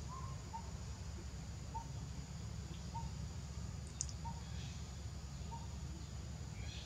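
A bird calling short chirps about once every second or so, over a steady low rumble, with one sharp click about four seconds in.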